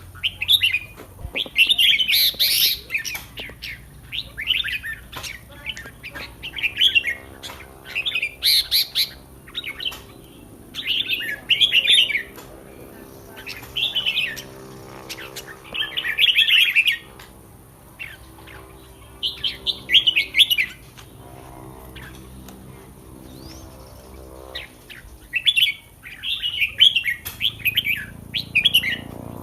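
Red-whiskered bulbul singing: short, loud warbled phrases repeated every second or two, with a quieter spell of a few seconds past the middle.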